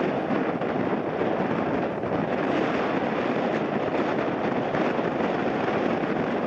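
An airliner on landing approach, a steady engine rumble mixed with strong gusting wind on the microphone.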